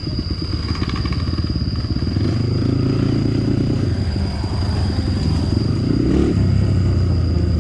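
Dirt bike engine running with the throttle worked, revving up about two seconds in and again around six seconds.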